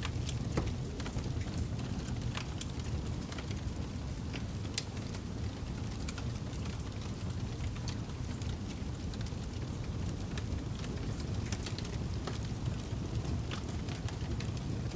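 Campfire burning and crackling: irregular sharp pops and snaps over a steady low rumble.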